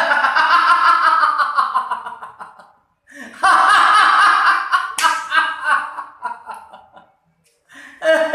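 A man's loud, exaggerated theatrical laughter in two long bouts, with a sharp slap-like smack about five seconds in and another short burst of laughter near the end.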